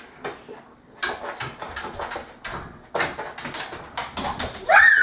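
Pet dogs at play, with scattered short knocks and scuffles and small dog sounds. A rising high-pitched voice starts near the end.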